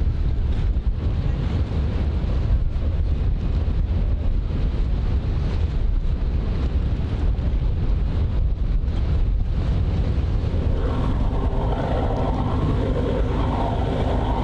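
Wind buffeting the microphone in a steady low rumble, with a vehicle's or boat's engine noise coming in about three-quarters of the way through.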